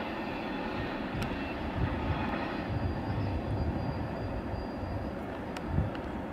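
Enclosed autorack cars of the Amtrak Auto Train rolling past: a steady rumble of steel wheels on rail, with a few low thumps and a couple of sharp clicks, the loudest thump near the end.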